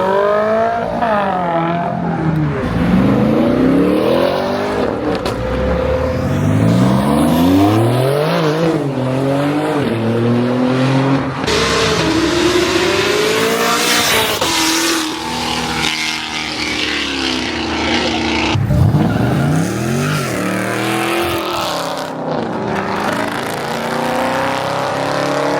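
Performance car engines revving hard as they pull away, pitch sweeping up and down again and again with a sharp rev about three-quarters of the way through.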